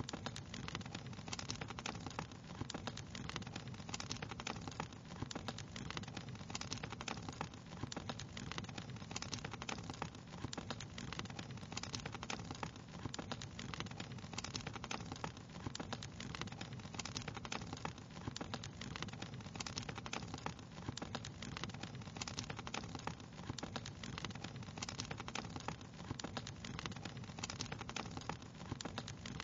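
Wood fire crackling steadily: a dense run of small pops and snaps over a steady low background of the burning fire.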